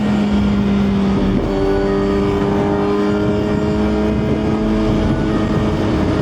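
Suzuki GSX-R1000's inline-four engine running steadily while riding, over a rush of wind noise. About a second and a half in the engine note changes, then climbs slowly.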